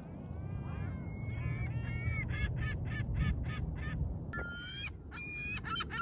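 Gulls calling: a few drawn-out, falling cries, then fast runs of repeated calls at about three or four a second, twice, over a steady low rumble.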